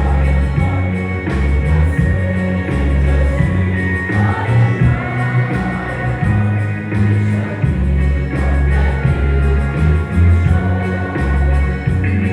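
A song being sung with amplified accompaniment and a heavy, steady bass line.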